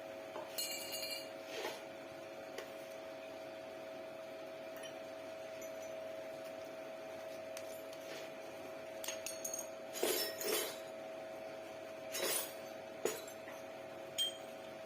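Scattered metallic clinks and taps, a few of them ringing briefly, from metal parts and tools being handled, over a steady electrical hum.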